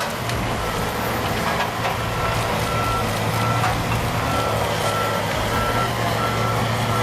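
Heavy machine's engine running steadily with its backup alarm beeping about once every 0.7 seconds, the beeps starting about two seconds in.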